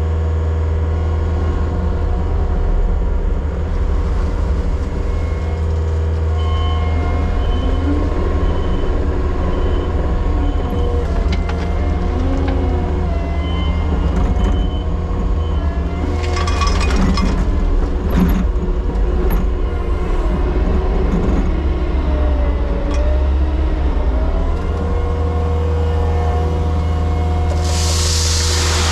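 Diesel heavy equipment running steadily close by, a deep engine drone with whining tones that bend in pitch now and then as the machine works. A few short noisy bursts come in the middle, and a loud hiss near the end.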